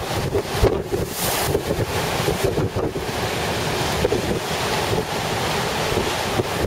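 Storm-force wind buffeting the microphone in uneven gusts over heavy ocean surf breaking and washing ashore.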